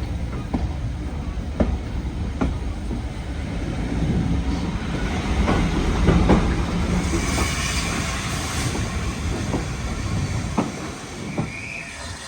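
Heritage railway train running on jointed track: a low rumble with the wheels clacking over rail joints, a wheel squeal about two-thirds of the way through, and the sound fading near the end.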